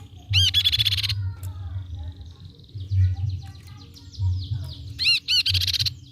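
Crescent-chested babbler singing: two loud, roughly one-second bursts of rapid, arched high notes, one shortly after the start and one near the end, with a run of fainter, falling notes between them. A low rumble pulses underneath.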